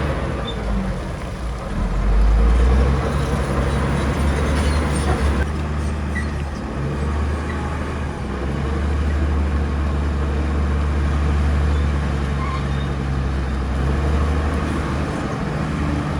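Heavy diesel engines of earthmoving machines running under load: a deep, steady rumble that swells about two seconds in and rises and falls gently as the machines work.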